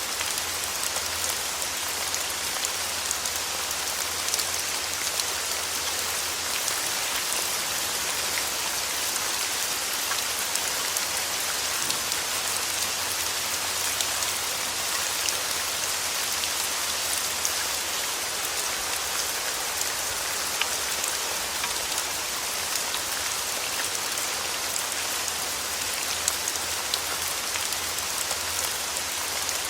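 Steady rain falling on a surface: a dense, even hiss sprinkled with many small sharp drop ticks, unchanging throughout.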